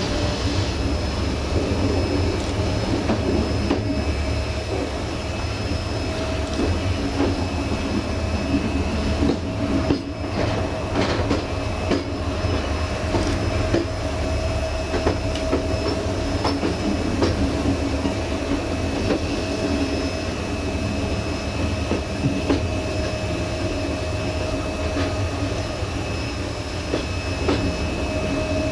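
Passenger train running along the track, heard from on board at its rear: a steady wheel rumble with a constant whine and scattered clicks of the wheels over the rails.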